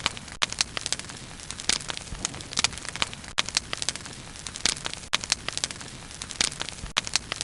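Wood bonfire burning, with steady irregular crackling and sharp pops of the burning wood over a soft hiss of flame.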